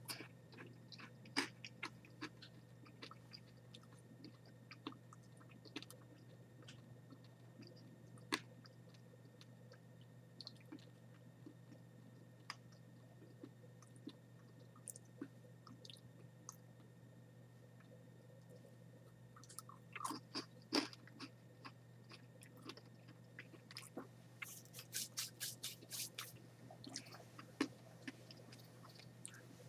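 Chewing dried red palm weevil larvae (sago worms): faint, scattered crunches and clicks from the mouth, with a quicker run of sharper crackles a few seconds before the end.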